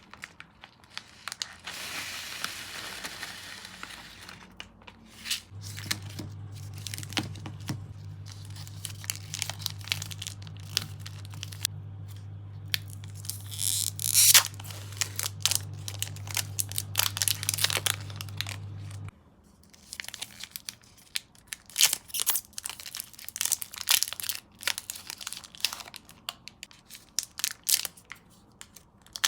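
Plastic sweet packaging crinkling and tearing open as sweets are handled and set onto a platter, with many small clicks and rustles and two longer tearing passages. A steady low hum runs from about five seconds in and cuts off suddenly about two-thirds of the way through.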